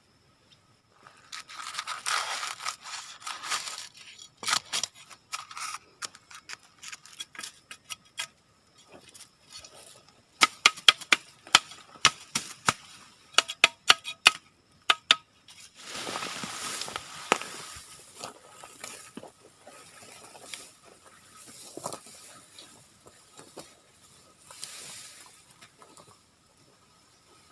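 Rustling and crackling of leaves and twigs being handled, in several bursts, with a quick run of sharp snaps or clicks about ten seconds in.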